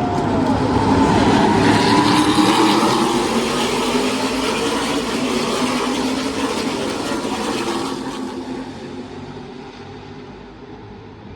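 NASCAR Truck Series race trucks' V8 engines running at full speed as the pack passes, loudest about two seconds in. The sound fades away from about eight seconds on.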